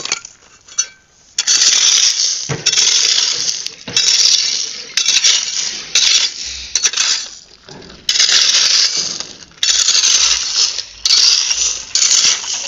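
Small pebbles clattering and rattling in about nine separate bursts, each around a second long, as handfuls are scooped up and poured out.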